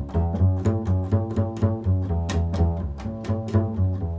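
Double bass played pizzicato in a quick improvised walking line, about four plucked notes a second, deep and resonant.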